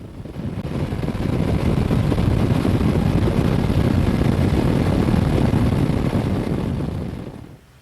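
Motorcycle on the move: a steady rush of wind and engine noise that builds over the first second or two and falls away near the end.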